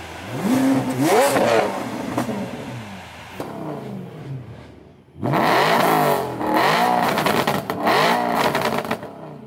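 Car engines revving. One rev sweeps up and falls away about half a second in. From about five seconds in, a lowered BMW 3 Series convertible's engine is blipped through a run of quick, repeated revs.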